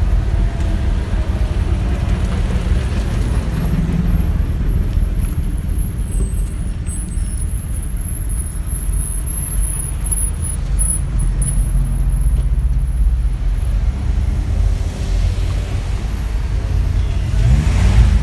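Engines of vintage pre-war cars running as they drive slowly past one after another, a steady low rumble. Near the end one engine rises in pitch and gets louder as it speeds up.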